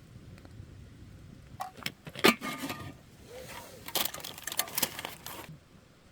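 Campfire crackling, with two bursts of sharp pops and snaps, one about a second and a half in and a louder-edged one about four seconds in.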